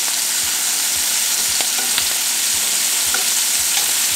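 Shrimp sizzling in hot sesame oil in a frying pan, with a few light clicks as metal tongs turn them.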